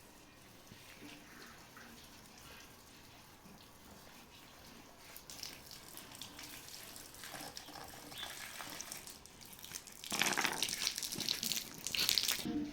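Water splashing, faint at first and growing louder, loudest for a couple of seconds near the end.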